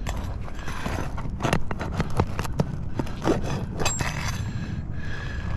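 Scraping and irregular sharp metallic clicks of a tool working at asphalt roof shingles and nails, busiest in the middle, over a steady low rumble.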